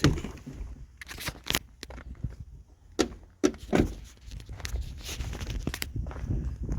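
Footsteps on muddy junkyard ground: irregular sharp steps and knocks over a low rumble that grows louder in the second half.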